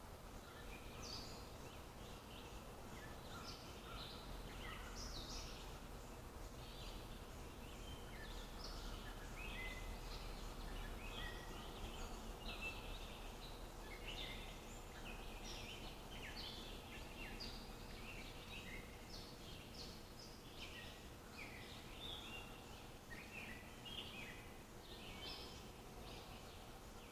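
Birds chirping and singing in quick, overlapping short notes throughout, over a faint low rumble of outdoor ambience.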